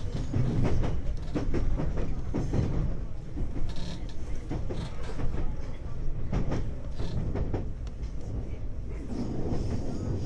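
Interior running sound of a 521 series electric multiple unit: a steady low rumble of wheels on rail with irregular clicks and knocks from the track as the train runs in toward its terminus.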